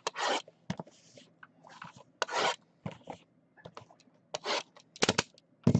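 Trading card packaging being opened and unwrapped by hand: a run of short scraping, tearing swishes, with a few sharp clicks and a knock near the end.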